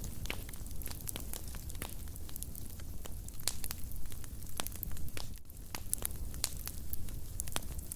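Wood fire burning in a fireplace: many irregular sharp crackles and pops over a steady low rumble of flames.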